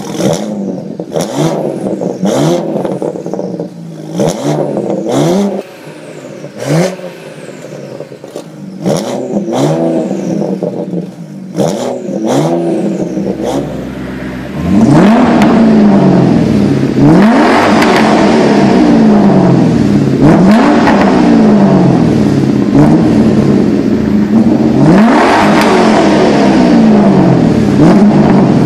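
BMW 335i E92's turbocharged straight-six exhaust being revved. In the first half come short throttle blips, each rising quickly and ending in sharp cracks as the revs drop. From about halfway on the sound turns louder and deeper, with the revs rising and falling again and again every couple of seconds.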